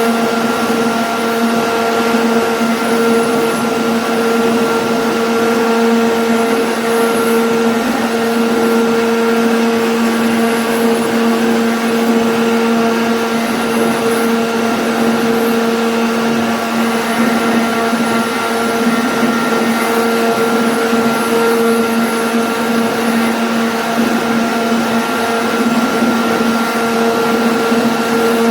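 CNC router spindle running at a steady high speed with a continuous whine, as the bit cuts a jali lattice pattern, with the noise of the cut and the dust collection mixed in.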